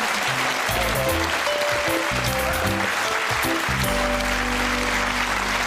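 Studio audience applauding over a short piece of music. The music's notes change for the first few seconds, then it settles into one long held chord with deep bass.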